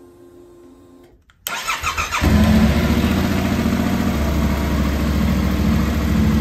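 Yamaha MT-07's 689 cc parallel-twin engine being started. About a second and a half in there is a brief burst of starter cranking, then the engine catches at once and settles into a steady idle. Before the start only a faint hum is heard.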